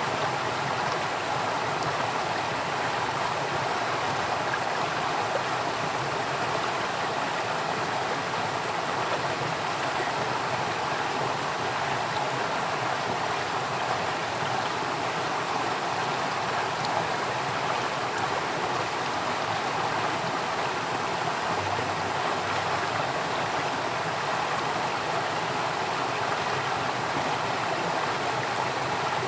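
Water flowing in a stream, a steady unbroken rush with no changes.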